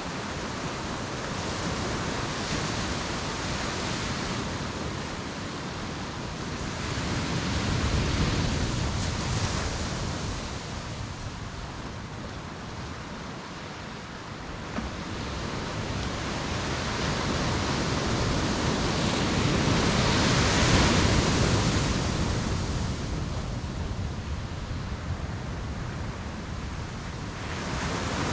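Ocean surf: waves breaking and washing up the shore in a continuous roar, swelling to louder crests about eight and twenty-one seconds in.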